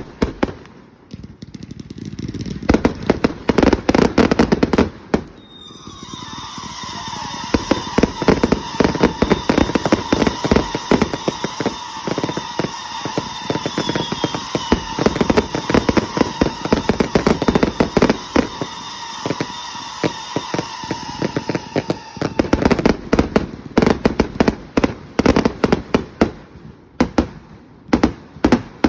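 Fireworks going off: a rapid, dense string of sharp cracks and pops, with a steady shrill whistle held from about six seconds in until about twenty-two seconds in.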